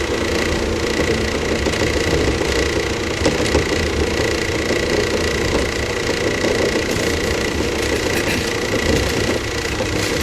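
Running sound inside the motor car of a JR 115-series electric train (KuMoHa 115) under way: steady hum from the MT54 traction motors and gearing with wheel-on-rail rumble, and a thin steady whine over it. A few faint clicks come in near the end.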